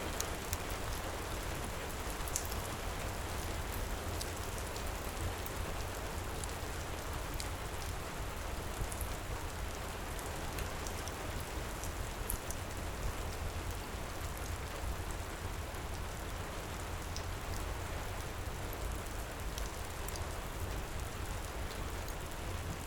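Heavy rain falling steadily, with scattered faint crackles from a wood fire mixed in.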